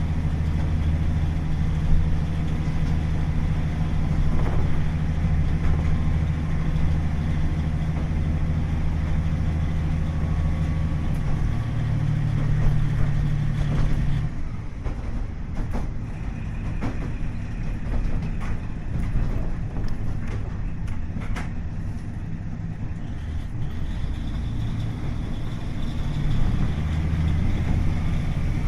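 KiHa 40 diesel railcar running, its DMF15HSA six-cylinder diesel engine pulling under power with a steady drone. About 14 seconds in the engine drops back and the car coasts, with sharp clicks from the wheels and track. The engine drone builds again near the end.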